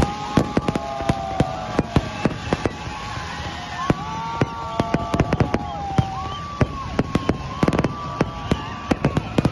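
Fireworks display going off: a rapid, irregular run of sharp bangs, several a second, with steady tones held a second or two at a time sounding over them.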